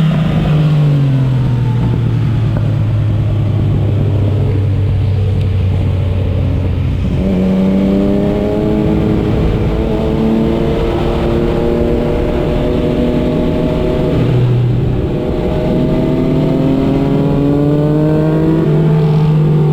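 Motorcycle engine heard on board while riding, over a steady rush of wind noise. Its note holds low for several seconds, jumps up about seven seconds in and slowly falls, dips briefly around fourteen seconds, then rises again and holds: gear changes and throttle changes.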